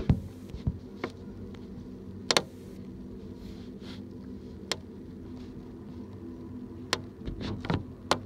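Intermodal freight train passing unseen: a steady low hum with about eight sharp clacks at irregular intervals, the clacks bunching up near the end.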